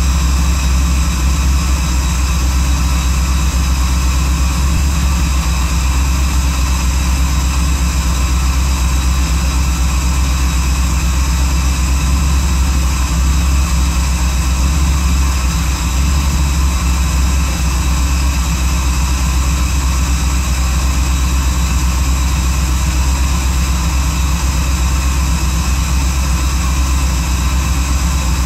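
Car engine idling steadily while warming up, heard from inside the cabin. The idle runs with an air/fuel imbalance, the left bank lean, which new plugs, plug wires and coil harnesses and swapping the coils and injectors side to side have not cured.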